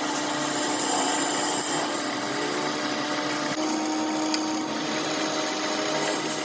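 Metal lathe running steadily, a constant hum under a dense high hiss.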